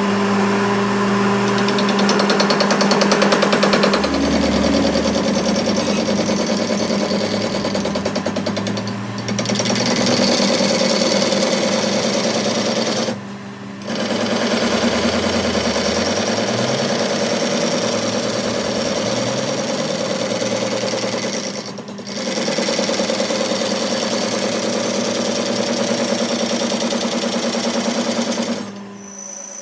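A rapidly pulsing metalworking tool runs loudly over a steady hum. It stops briefly twice and cuts off near the end.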